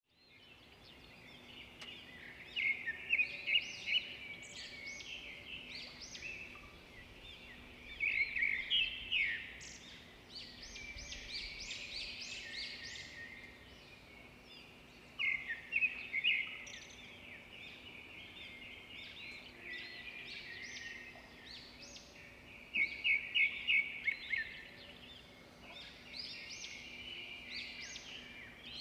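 Birdsong: a bird sings short bursts of rapid, high chirps every several seconds, with quieter chirping between them, over a faint steady hum.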